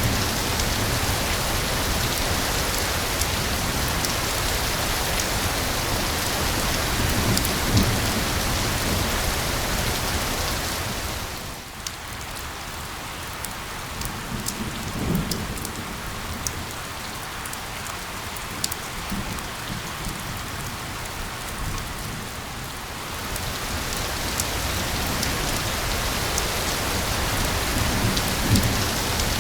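Steady heavy rain hiss. For about ten seconds in the middle it thins and drops in level, so single drops can be heard ticking, then the full rain returns; a few brief low thumps come through.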